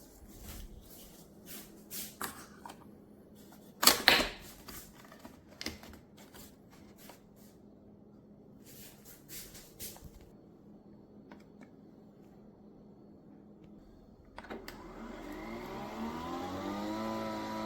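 Clicks and knocks of handling the Nespresso Vertuo Pop+, with one loud clack about four seconds in. About two-thirds of the way through, the machine's motor starts up with a whine that rises in pitch and then holds steady as it begins a brew cycle.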